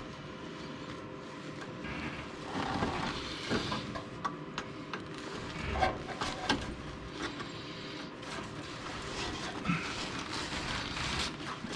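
Screwdriver prying at an exhaust hanger on its steel bracket: irregular metal clicks, taps and scraping with handling rustle, several sharper knocks in the middle, as the hanger is worked over the nub on the bracket.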